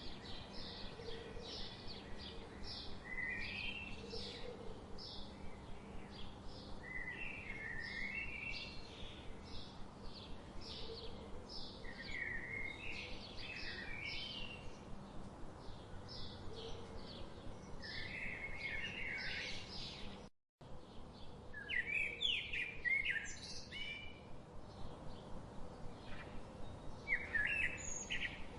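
Small birds chirping: many quick, repeated chirps and short calls over a faint steady background. The sound cuts out completely for an instant about two-thirds of the way in.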